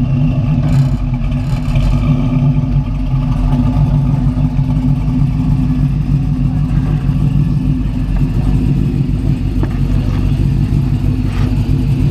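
Turbo diesel pickup engine running loud and steady on a chassis dyno, its low drone holding one pitch with no rise or fall.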